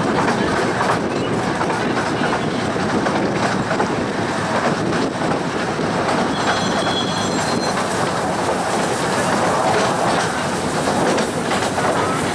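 Ravenglass & Eskdale Railway's 15-inch-gauge train running along the track, with wheels clattering steadily over the rails. A short, high wheel squeal comes about halfway through.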